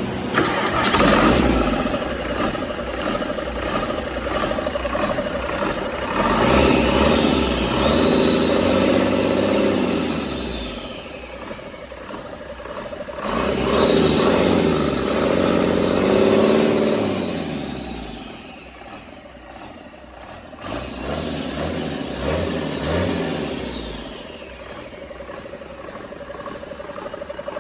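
An engine running and being revved up and down about three times, each rev rising in pitch and falling back, then dropping to an even, pulsing idle near the end.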